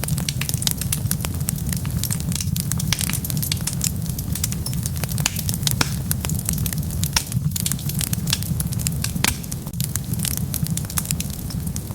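Wood fire burning: rapid, irregular crackles and pops over a steady low rumble of the flames.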